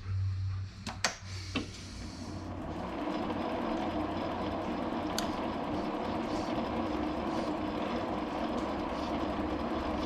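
A few sharp clicks, then a shop machine's electric motor coming up to speed over about a second and running steadily.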